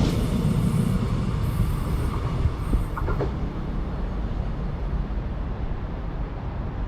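A passenger train running past on the rails, a steady low rumble that slowly fades as it moves away.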